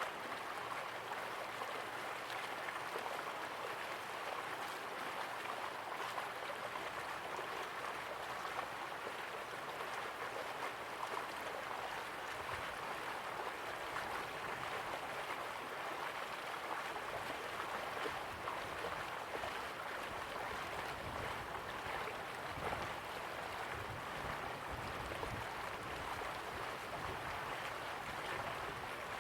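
Slow-flowing river water running steadily, a constant rushing and gurgling wash with no breaks.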